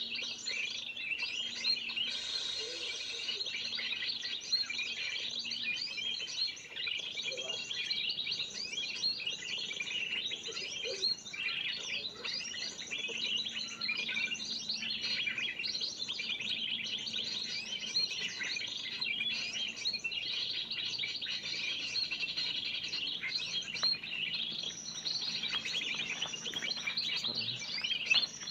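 Many small birds chirping and twittering over one another in a dense, unbroken chatter: a 'noisy birds' lure call used in bird trapping to draw in spiderhunters.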